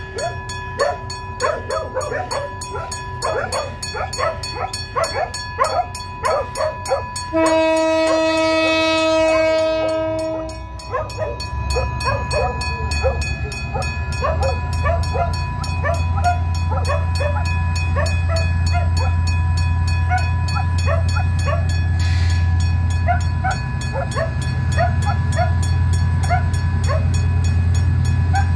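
Dogs barking repeatedly. About seven seconds in, a diesel locomotive's horn sounds one steady blast of about three seconds. Then the locomotives' diesel engines rise to a steady low drone as the passenger train pulls out.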